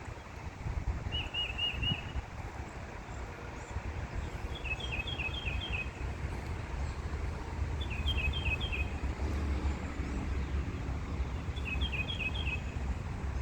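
A songbird repeating a short phrase of quick, high, doubled chirps four times, every three to four seconds, over a steady low rumble.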